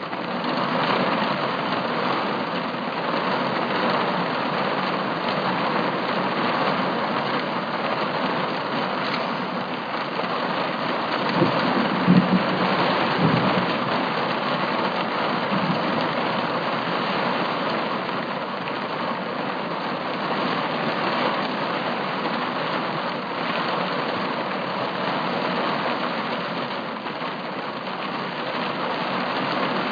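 Heavy rain falling steadily in a thunderstorm. A short low rumble of thunder comes about twelve seconds in.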